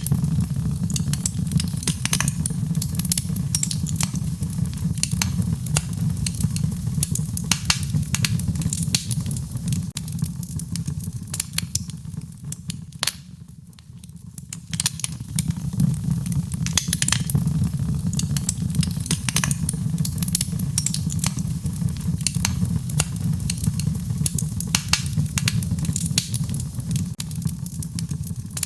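Wood fire crackling in a fireplace: frequent sharp pops and snaps over a low, steady rumble of the flames. It goes briefly quieter about halfway through, then picks up again.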